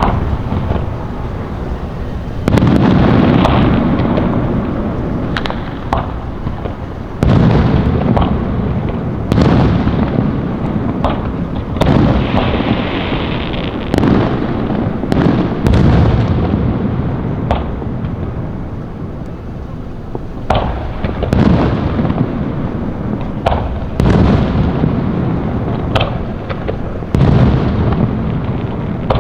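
Fireworks display: shells bursting with loud booms every few seconds, each rumbling and echoing away, with sharper cracks and pops in between.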